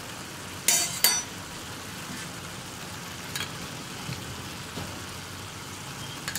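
Onion-tomato masala sizzling in a cast-iron kadai, a steady frying hiss, with a short clatter about a second in and a couple of faint clicks later.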